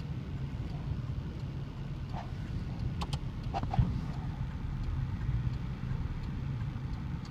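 Car running with a steady low rumble, with a few brief clicks about three to four seconds in.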